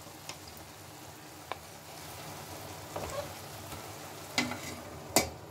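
Chopped water spinach (kolmi saag) sizzling as it fries in a steel kadai, stirred with a wooden spatula. A steady hiss runs under a few scrapes and knocks against the pan, the loudest just before the end.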